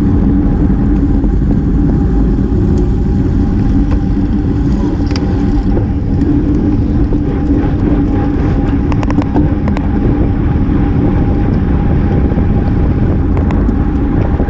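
Steady wind and road noise from a road bicycle ridden at race speed, heard on a GoPro microphone: a constant rush with a low steady hum from the tyres and drivetrain.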